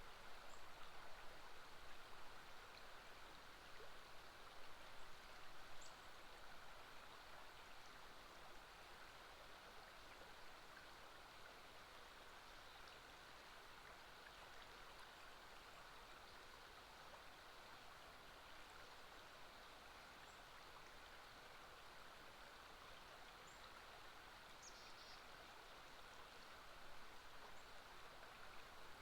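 Faint, steady rushing of a river's flowing water, with a few faint, brief high chirps of birds.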